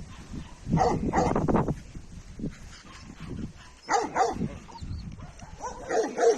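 Dogs barking in three short bursts, with quieter stretches between.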